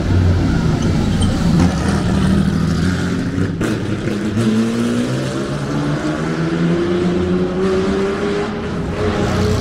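Vintage car engines running: a low, steady engine note, then from about four seconds in one engine's pitch rises steadily for several seconds as a car accelerates away.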